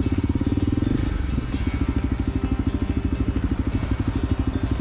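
Honda CRF250L dual-sport motorcycle's single-cylinder engine running at low, steady revs with an even, rapid pulse while being ridden slowly along a trail; the note dips slightly about a second and a half in, then holds steady.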